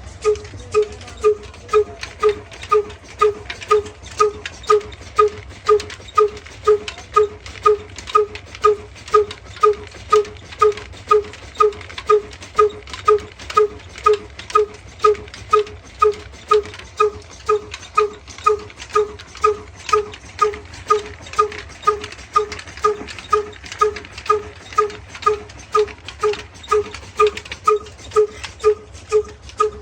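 Diesel engine running at a slow, steady speed, with an even beat a little over twice a second.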